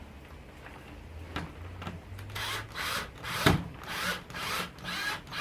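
A cheap power drill driving a screw into wood in short repeated bursts, about two a second, the screw spinning without biting. There is one sharp knock midway.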